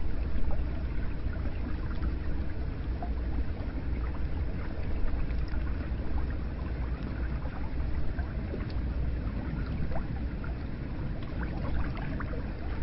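Hot spring water running and lapping steadily, with many small drips and splashes scattered throughout.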